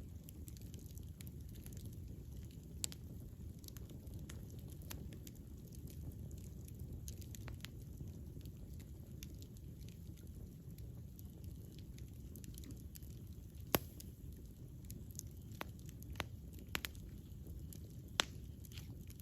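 Wood fire burning with a steady low rumble and scattered sharp crackles and pops, a few louder snaps standing out.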